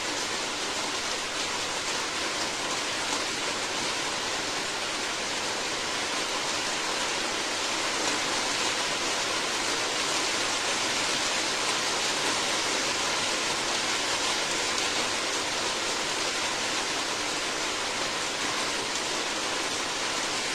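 Steady, heavy rain falling in an even hiss, with no distinct drips or thunder.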